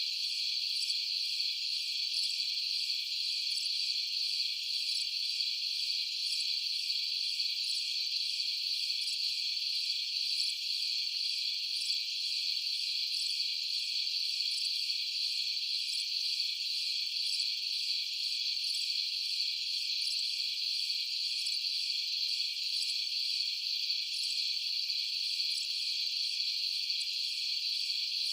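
A steady, unbroken chorus of crickets chirping, high-pitched, with nothing lower underneath.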